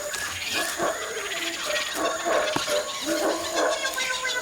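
Tropical forest animal calls: many short calls and chirps overlapping, over a steady high-pitched whine.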